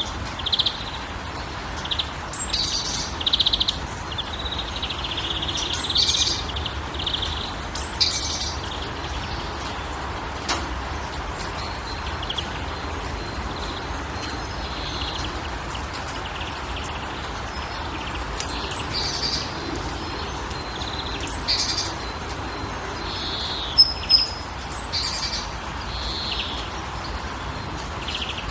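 Wild birds chirping and trilling in many short, high calls, including a few rapid buzzy trills in the first seconds and some sharp, louder chirps near the end, over a steady background hiss.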